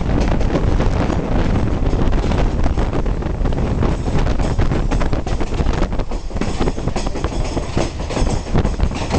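Passenger train running along the track, heard from an open window: a steady rumble of the cars with the wheels clattering over the rails, and wind buffeting the microphone.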